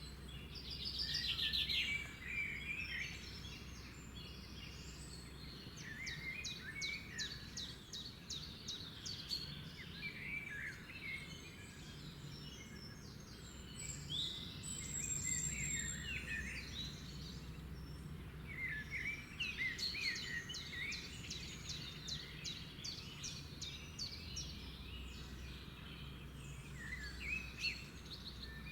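Several wild birds singing and calling, with quick runs of rapidly repeated high notes that come in bursts, over a steady low background rumble.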